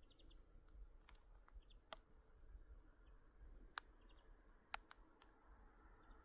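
Near silence, broken by a few faint, sharp ticks spread through it.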